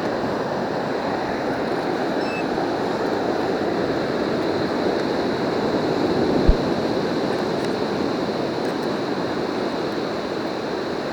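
Surf washing on the beach in a steady rush that swells through the middle and eases toward the end. A single short thump comes about six and a half seconds in.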